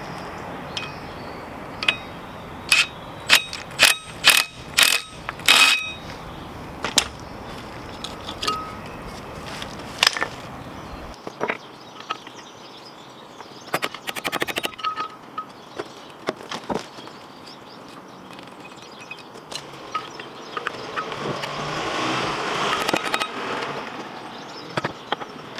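Metal tools clinking and striking against metal brake parts: a string of sharp ringing knocks in the first few seconds, then a quick run of clicks about midway.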